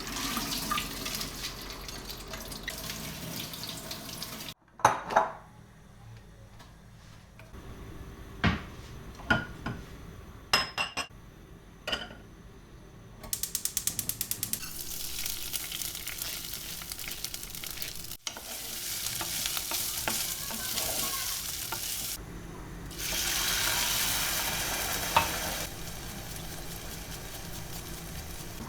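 Home kitchen sounds cut together in short takes: stretches of steady hiss like running water or food sizzling in a pan, with sharp clinks and knocks of utensils against dishes and stirring.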